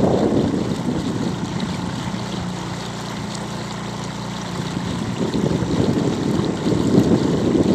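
Outdoor river ambience: wind gusting on the microphone over moving water. The gusts ease for a few seconds in the middle, where a faint low steady hum comes through.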